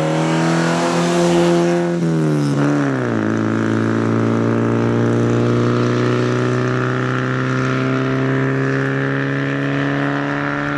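Vintage rally car's engine running at speed as it passes, its pitch dropping about two to three seconds in, then holding a steady note as the car drives away.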